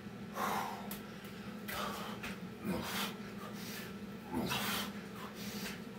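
Heavy, laboured breathing from hard exertion during Navy SEAL burpees: loud gasping breaths about once a second, several with a voiced grunt that falls in pitch. A steady low hum lies underneath.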